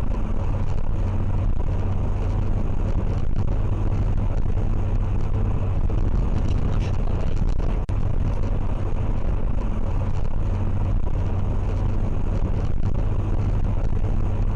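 Steady engine and road noise of a moving vehicle, a low even rumble with a faint hum, with no crash impact heard. It stops abruptly at the end.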